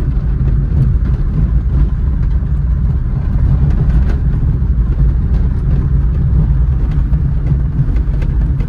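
Cabin noise of a Maruti Suzuki A-Star driven over a rough road: a steady low rumble of road and engine, with scattered small clicks and knocks of interior rattles. The owner traces the rattle mainly to door visors whose tape has come loose, knocking against the doors.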